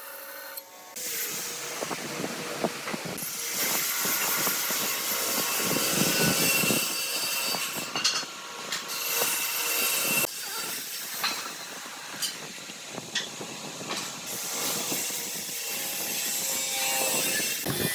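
Woodworking power tools running on wood: a loud, harsh hiss of cutting or sanding with scattered knocks and clicks, changing in character every few seconds.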